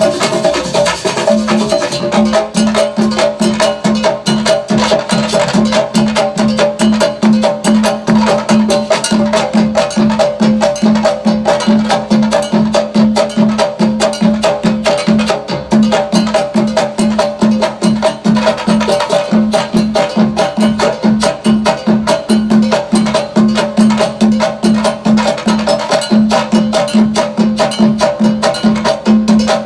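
Live percussion ensemble playing a dense, fast drum groove, with a low pitched note pulsing steadily under the strokes.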